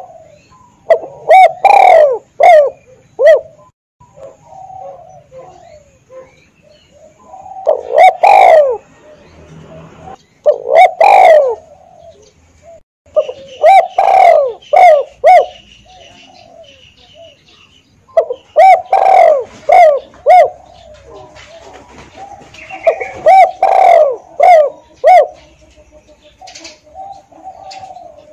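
Spotted dove (tekukur) cooing: about six phrases, each a quick run of several rhythmic coos, separated by pauses. Faint chirps from other birds sound in the gaps.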